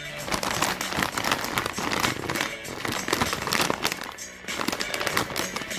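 Plastic snack wrapper crinkling and crackling as it is handled and torn open, with a short pause about four seconds in, over background music.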